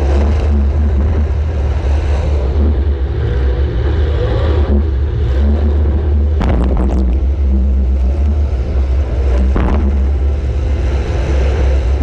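Compact demolition-derby car's engine running under load with a heavy low rumble. There are several sharp knocks past the middle, about six and a half, seven and nine and a half seconds in.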